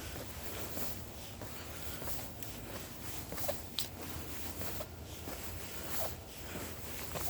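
Footsteps of someone walking on a forest floor, about one step a second.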